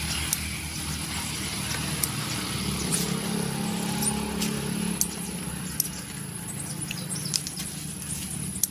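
A motor running with a steady low hum that swells a little midway, with scattered sharp clicks over it.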